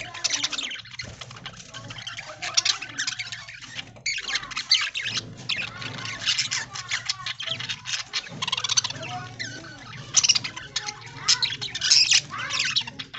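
A flock of budgies chattering and chirping, many short overlapping calls at once.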